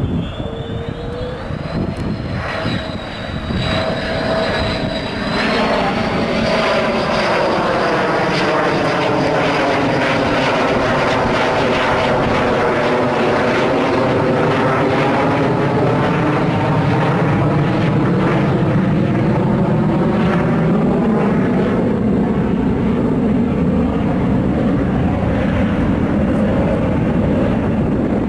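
Jet noise from a Sukhoi Su-27 fighter's twin AL-31F turbofan engines during a display pass. A high whine sits over the rush in the first few seconds; the noise grows loud about five seconds in and stays loud, with a swishing sweep down and back up as the jet passes.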